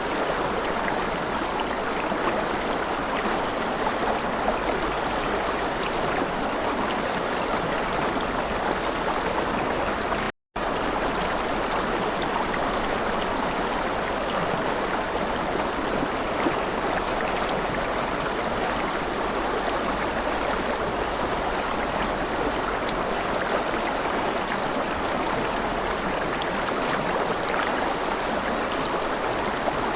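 River water rushing and splashing in a steady, even wash, cut by a brief dropout to silence about ten seconds in.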